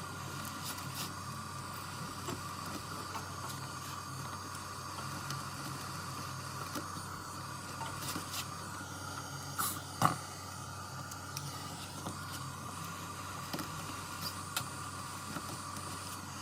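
Steady machine hum with a few sharp clicks, the loudest about ten seconds in.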